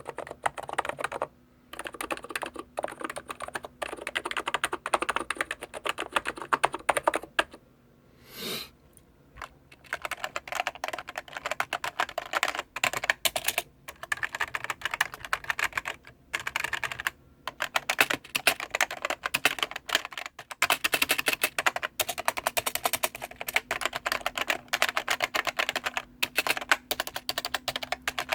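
Fast typing on a computer keyboard: rapid runs of key clicks broken by short pauses, with a brief soft swish about eight seconds in.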